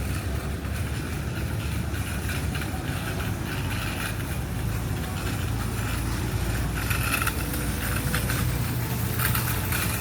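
Steady low engine-like rumble, with short bursts of hiss about seven and nine seconds in.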